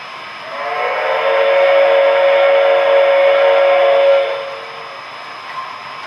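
A model steam locomotive's sound decoder blowing a chime steam whistle: one long blast of about four seconds, several steady tones sounding together, over a steady background hiss.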